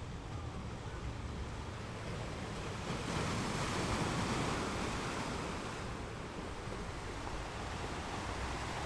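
Ocean waves washing onto a shore, one wave swelling about three seconds in and easing off a few seconds later.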